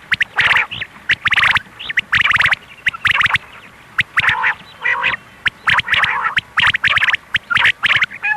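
Quail calls used as a hunting lure: short harsh bursts, each a fast run of clicks, repeating about twice a second.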